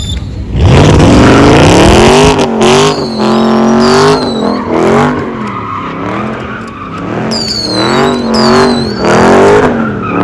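V8 car engine revved hard, climbing sharply about half a second in and then surging up and down again and again, with tyres squealing and skidding as the car spins donuts.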